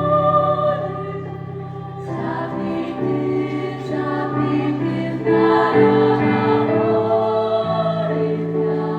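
Choir singing a Korean choral song in parts with piano accompaniment, sustained chords moving every second or two.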